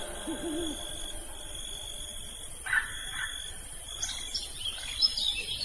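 Insects trilling in one steady high tone, with a few short bird chirps about three seconds in and again near the end.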